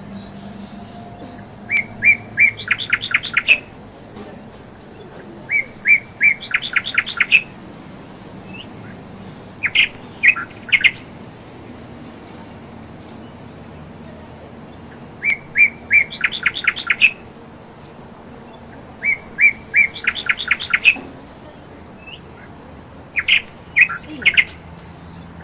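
Bird chirping: six short phrases, each a few even notes running into a fast trill, repeated every few seconds.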